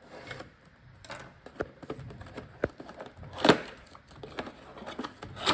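Packaging of a die-cast model airplane being handled and opened by hand: scattered small clicks and rustles, with a louder sharp rustle about three and a half seconds in and another near the end.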